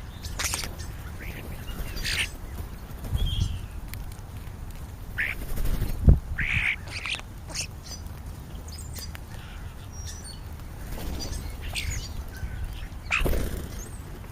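Birds at a feeding spot, American crows and European starlings, giving scattered short harsh calls and chirps, with a dull thump about six seconds in.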